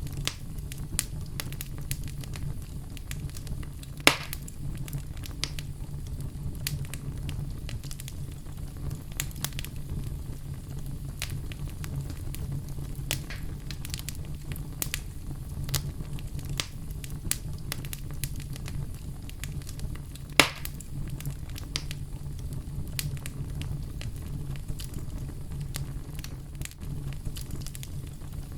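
Oak logs burning in a fireplace: a steady low rumble of flame with frequent irregular crackles, and two louder pops, one about four seconds in and one about twenty seconds in.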